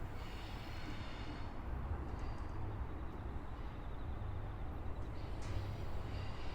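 Train running past with a steady low rumble. A high squeal of several tones at once dies away about a second and a half in and comes back near the end.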